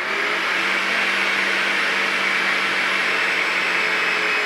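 Electric drill running steadily under load as it bores a hole in a square steel tube for a gas burner, its motor stopping near the end.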